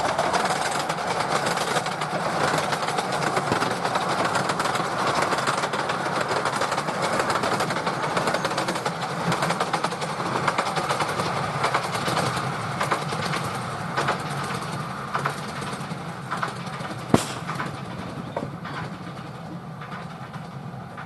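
A 10.25 inch gauge miniature steam train running on its track, with scattered clicks from the wheels and one sharper click near the end; the sound slowly fades over the last few seconds.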